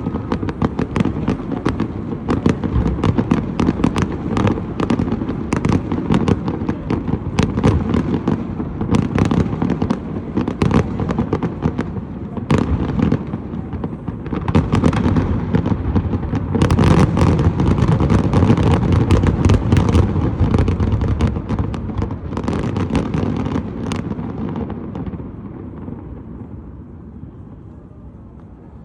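Fireworks display: a dense, continuous barrage of bangs and crackles over a low rumble, heaviest about two-thirds of the way through. The bangs stop a few seconds before the end and the rumble fades away.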